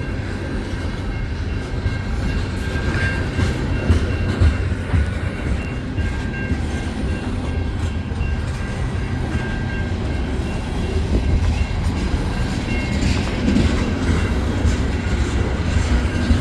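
CN freight train of tank cars rolling past at a crossing, with a steady low rumble and the wheels clacking over the rail joints; the clacking grows busier near the end.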